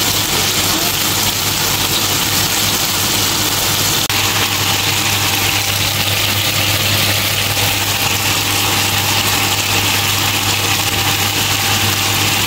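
Chicken pieces and chopped onions sizzling in hot oil over a gas flame: a steady frying hiss over a constant low hum, with a brief drop about four seconds in.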